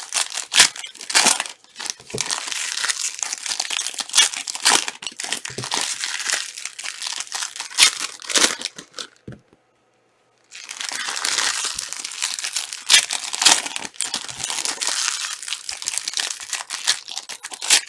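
Plastic wrappers of trading-card packs being torn open and crinkled by hand, a dense run of crackling with a pause of about a second near the middle.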